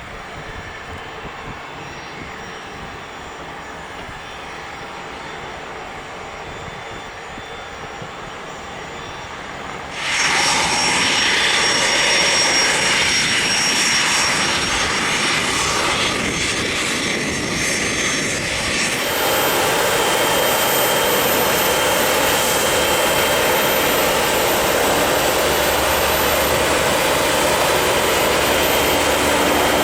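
Business jet engines running, a steady rushing noise that jumps abruptly much louder about a third of the way in and changes character again past the middle.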